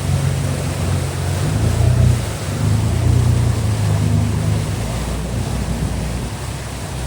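Passenger ferry's engines running under wind and water noise as the ferry comes in to the wharf. The low engine note rises and falls with the throttle.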